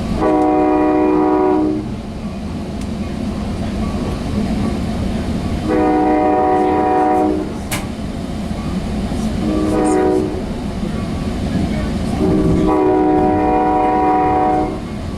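Sounder commuter train's horn sounding the grade-crossing signal, long, long, short, long, over the steady rumble of the moving train. The horn is a chord of several notes, heard from aboard the train.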